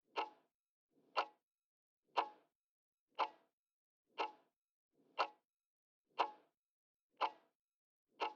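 Clock-style countdown timer ticking steadily, one tick a second, nine ticks in all: the answer timer of a quiz running down.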